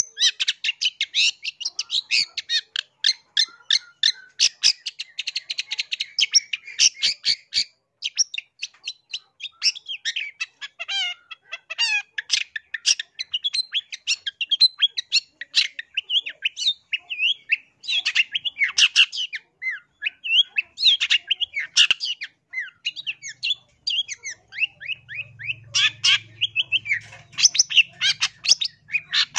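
Long-tailed shrike (cendet) singing a fast, varied chattering song of rapid harsh notes, squawks and trills, with only brief pauses.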